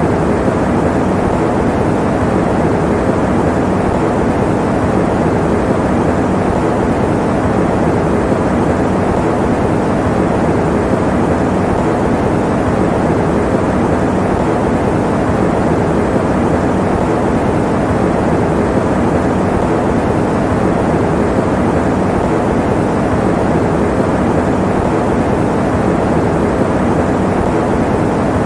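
Electric fan running steadily, making an even, deep noise of moving air with little hiss and no changes.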